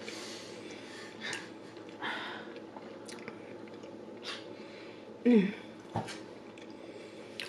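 Close-miked chewing and wet mouth sounds of someone eating meatloaf, with soft scattered clicks. A short voiced sound, louder than the chewing, comes about five seconds in.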